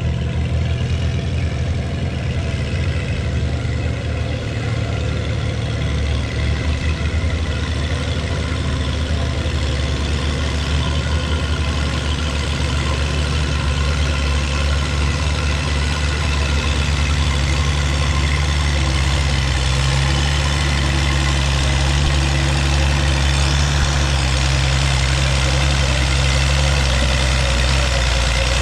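Antique farm tractor engine running steadily.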